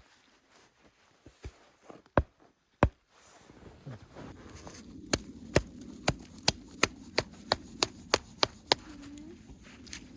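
A hand tool striking something solid: two single sharp knocks, then from about halfway a steady run of blows, roughly two to three a second.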